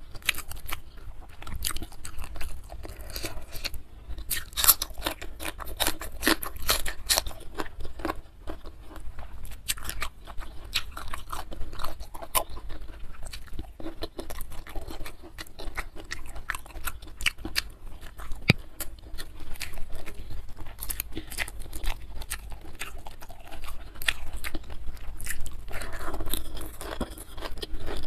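A person chewing and crunching mouthfuls of food close to the microphone, with many sharp, irregular wet mouth clicks.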